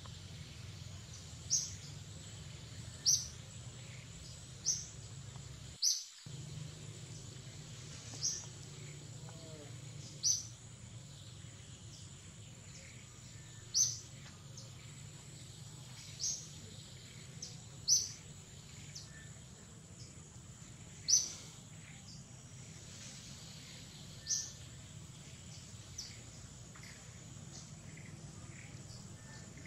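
A bird repeating a short, high call that drops quickly in pitch, about a dozen times, one to three seconds apart, over a steady low rumble and a faint steady high tone. The sound cuts out for a moment about six seconds in.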